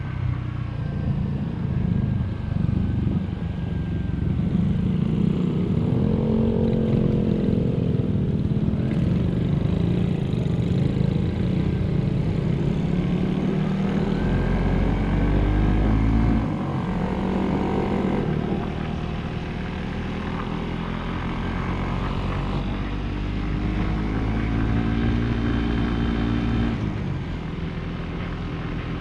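Motorcycle engine running on the move, its pitch rising and falling several times as the revs change, over heavy wind rumble on the microphone.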